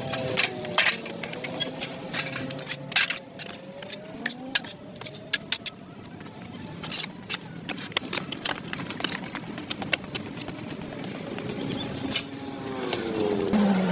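A motor vehicle's engine running, with many irregular sharp clicks and knocks. Near the end another vehicle grows louder as it approaches.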